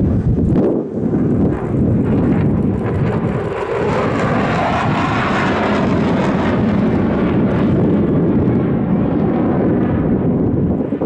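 Aircraft flying past, its engine noise loud and continuous, swelling to a peak about halfway through.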